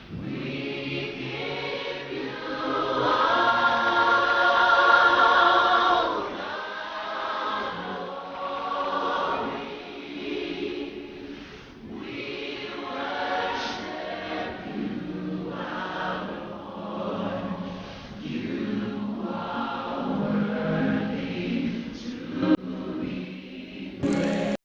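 A choir singing, several voices together in a song with gospel character.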